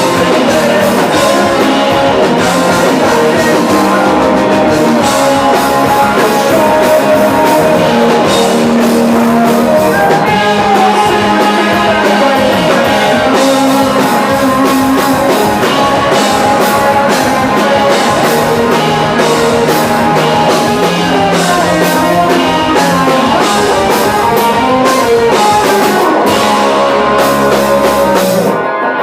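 Rock band playing live, loud, with electric guitar and drum kit; the drums cut off suddenly just before the end, leaving the guitar.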